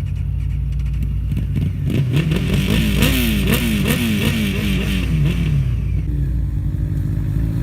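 Motorcycle engine running, its pitch rising and dropping in quick surges about three times a second for a few seconds, then settling back to a steady note.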